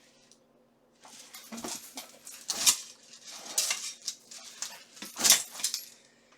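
Steel armor plates clinking and clattering as they are handled, a run of metal knocks and scrapes that starts about a second in, with the sharpest knocks near the middle and near the end.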